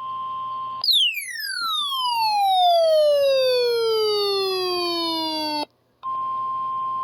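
A steady electronic alert tone of the kind weather radio sounds before a warning, broken after under a second by one long electronic whistle that falls from very high to low over about five seconds and cuts off suddenly; after a brief gap the steady alert tone comes back.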